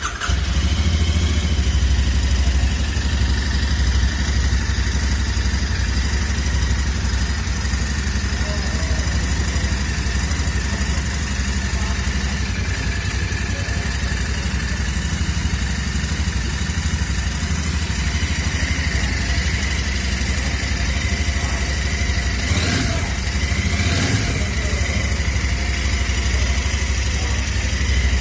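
Royal Enfield 650 parallel-twin engine idling steadily through its stock exhaust, with two brief sharp sounds a little over two thirds of the way in.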